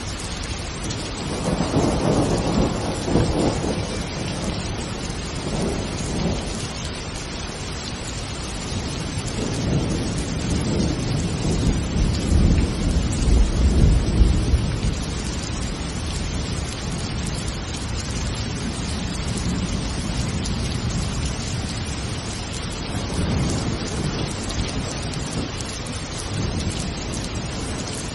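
Steady heavy rain with rolling thunder: a rumble a couple of seconds in and a longer, louder one around the middle.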